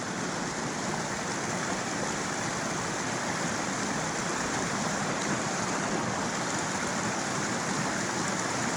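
Creek water running steadily over a riffle: a continuous, even rushing.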